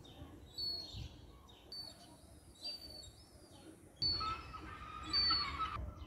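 Short, high bird chirps that drop in pitch, repeating about once a second, over faint outdoor background noise. Near the end a louder noisy stretch of about two seconds, with a steady tone in it, rises under the chirps.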